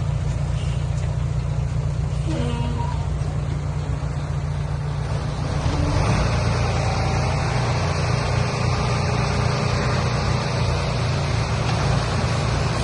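Dump truck engine running steadily with a low rumble, and a broad rushing hiss joining about six seconds in and staying.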